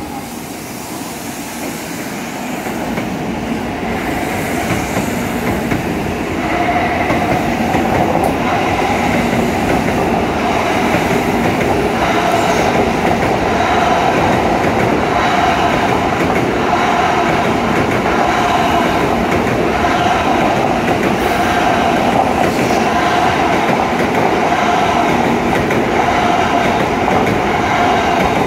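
N700A Shinkansen train pulling out and rolling past. It grows louder over the first several seconds as it gathers speed, then holds a steady running noise with a rhythmic swell as car after car goes by.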